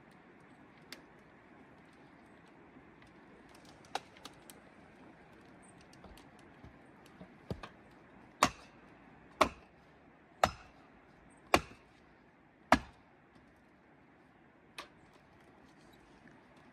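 Five sharp strikes, evenly spaced about a second apart, with a few lighter knocks before them and one more near the end, over a faint steady background.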